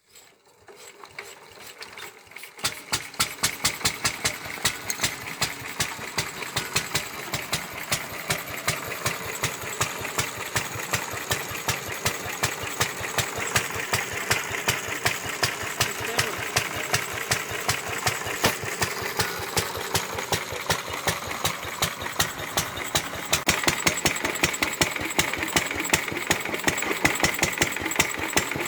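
Lister D 1.5 hp single-cylinder petrol stationary engine running, with sharp regular exhaust beats several times a second over a steady mechanical clatter. It comes up over the first couple of seconds and gets louder about 23 seconds in.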